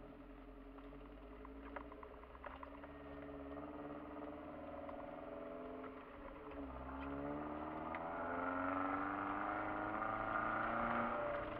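4x4's engine heard from inside the cabin, pulling up a snowy track: the revs climb slowly, drop about halfway through, then climb again and get louder before falling back near the end. A few light knocks in the first few seconds.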